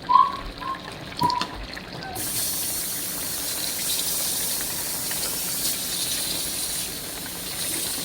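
Pot of birria broth bubbling on the stove, with a few short pops, then a steady hiss from about two seconds in.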